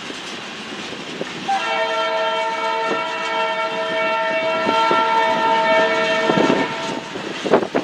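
A train's locomotive air horn sounds one long chord for about five seconds, starting about a second and a half in, over the rhythmic clacking of passing railcar wheels on the rail joints.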